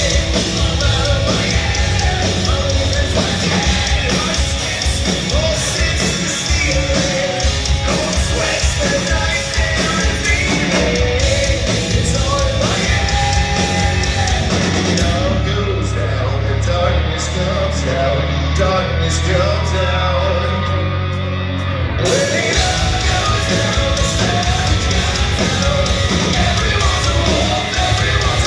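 Hard rock band playing live, with distorted guitars, bass, drums and a singer belting the vocal line. From about 15 to 22 seconds in, the cymbals drop out and the low, held part carries on alone before the full band comes back in.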